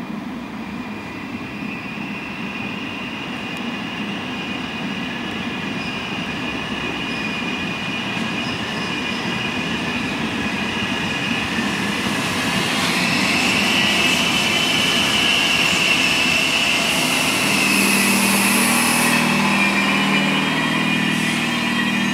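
E656 electric locomotive hauling a passenger train slowly along a station platform: steady rolling rumble with a high drawn-out wheel squeal, growing louder as the train comes closer. A low steady hum from the locomotive joins about two-thirds of the way in.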